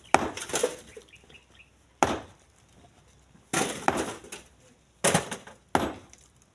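Chunks of split stone being thrown by hand into a truck bed, landing with about six sharp knocks at irregular intervals.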